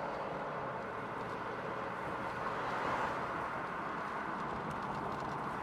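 2000 Camaro Z28's LS1 V8 and catless exhaust heard from inside the cabin while cruising, a steady drone mixed with road noise.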